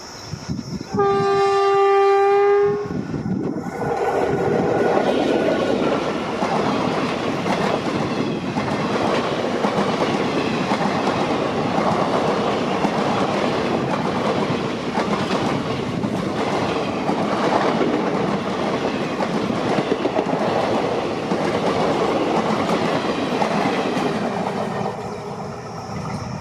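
An electric locomotive's horn sounds once for about two seconds, a single steady chord. Then an express train passes at speed, with the loud rumble and rattle of the wheels on the rails, easing off near the end.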